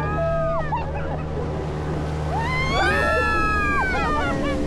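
Motorboat engine running steadily as it tows a banana boat over the water. A long drawn-out cry that rises and falls comes from the riders about halfway through, with a shorter one at the start.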